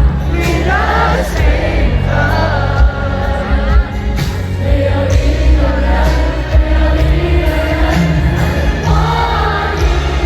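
Live pop concert music: singing over a loud band with heavy bass and drum hits, heard from inside the arena.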